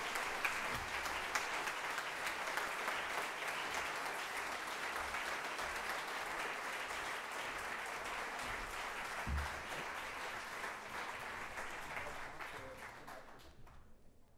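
Large audience applauding steadily, the clapping dying away near the end.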